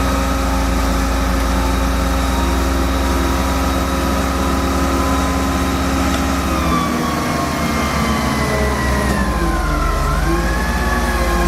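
Heavy engine running steadily, its low hum shifting about seven seconds in. A wailing siren rises and falls near the end.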